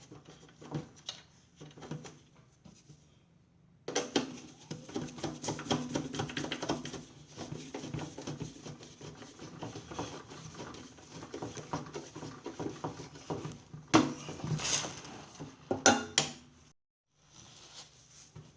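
Clattering and clicking of small hard parts being handled, over a low steady hum. The clatter gets denser about four seconds in, and there are a few louder knocks near the end.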